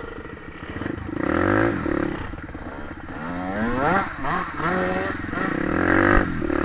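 Dirt bike engine revving up and down again and again, the pitch climbing and dropping several times as the bike is ridden over the trail.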